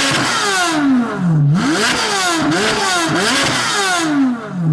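Chevrolet C8 Corvette Z06's flat-plane V8 through a new aftermarket exhaust, revved hard over and over. The pitch climbs and falls in long sweeps, with a short lift about a second and a half in.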